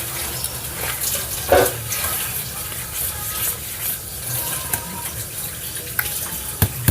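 Water running steadily from a tap into a sink, with a few sharp clinks near the end.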